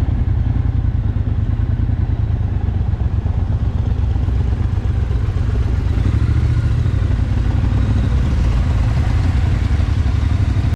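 Motorcycle engine running steadily under way, a low pulsing rumble that cuts off suddenly at the end.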